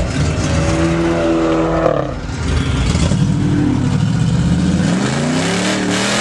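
A car engine revving hard over a steady hiss. Its pitch holds high, dips about two seconds in, then climbs again toward the end.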